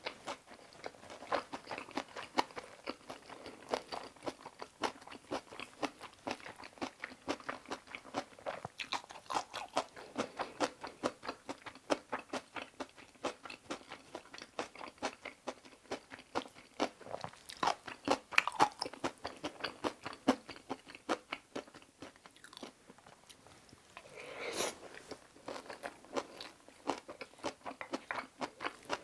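Close-miked mouth sounds of eating kimchi fried rice: steady wet chewing and crunching with many quick smacks and clicks, easing off a little after the middle, with one longer, louder sound near the end.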